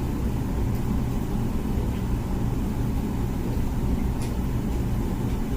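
Comfee dishwasher running mid-cycle: a steady, low, churning wash sound from the pump and the water spraying inside the tub.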